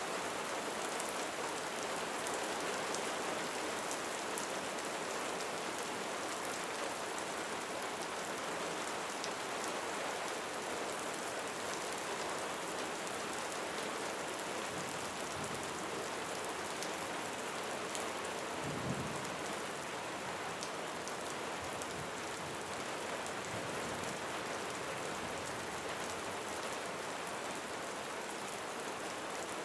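Steady rain falling on a roof. A short, low rumble of thunder comes about two-thirds of the way through.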